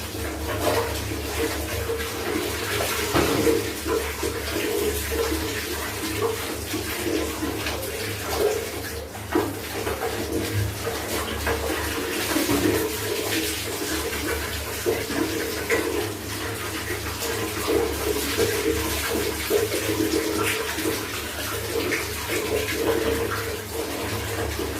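Running water splashing steadily, with a low steady hum beneath it.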